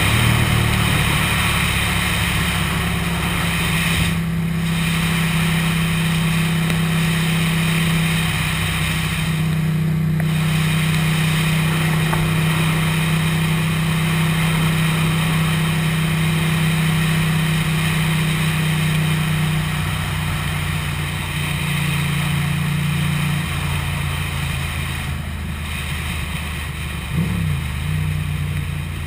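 Ducati motorcycle engine running at a steady cruise, with wind rushing over the microphone. Near the end the engine note briefly dips and climbs again.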